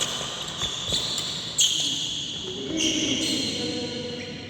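Badminton rally: sharp racket strikes on the shuttlecock about once a second, with high squeaks of shoes sliding on the court floor.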